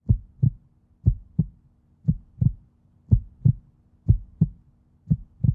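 Heartbeat: a steady lub-dub, each beat a pair of low thumps, about one beat a second, six beats in all.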